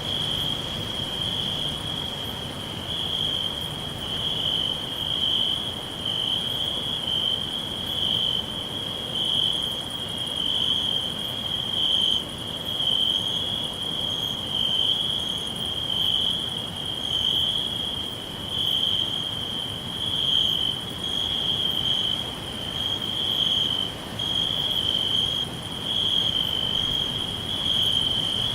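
Crickets chirping in a continuous chorus: one steady high-pitched trill that swells and fades every second or so, with fainter, higher insect calls above it.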